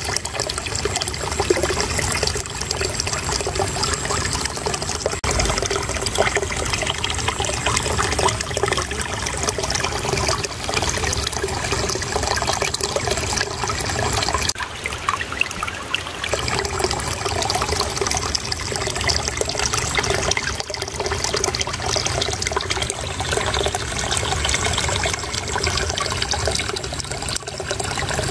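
Flowing water babbling and trickling steadily, a continuous rush of splashing water, briefly a little softer about halfway through.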